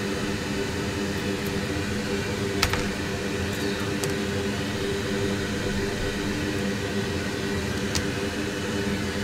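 Steady electric fan hum with a low, even drone, broken by two faint sharp ticks, one about a third of the way in and one near the end.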